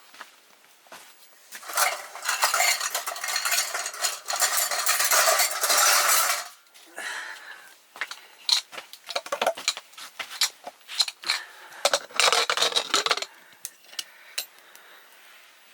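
A metal spoon scraping and stirring in a cooking pot for a few seconds, then a run of sharp clinks and knocks of metal on the pot, with a second short bout of scraping near the end.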